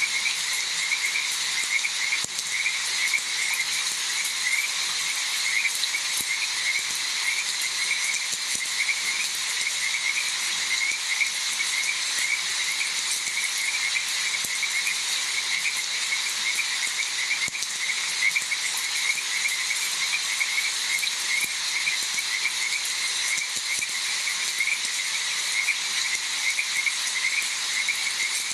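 A dense chorus of frogs croaking in quick, rapidly repeated calls over a steady hiss of rainfall.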